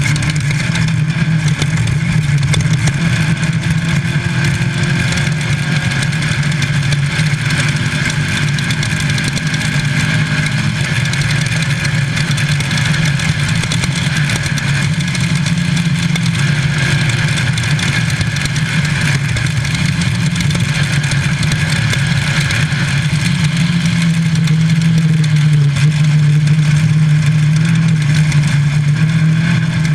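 Air-cooled VW flat-four engine of a Class 5 Baja Bug race car running hard at a steady pitch, heard from inside the car, with a constant rushing noise over it. The engine gets a little higher and louder about three-quarters of the way through.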